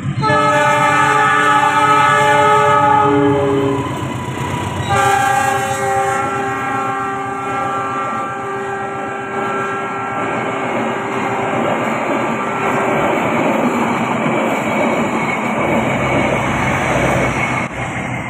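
Argo Parahyangan passenger train's diesel locomotive sounding its multi-tone horn in two blasts, the first about four seconds long and the second longer and fading out, as the train passes close by. The rumble and clatter of the coaches' wheels on the rails follows.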